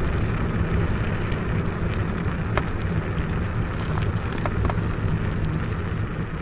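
Electric scooter riding off-road on a rough, wet track: steady wind rumble on the microphone and tyre noise, with scattered sharp clicks of grit or stones. The sound cuts off abruptly at the end.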